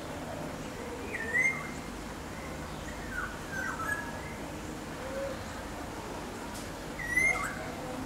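Wild birds calling: a clear whistled note that drops and then levels off, about a second in and again near the end, with fainter short falling notes in between and a couple of soft low notes.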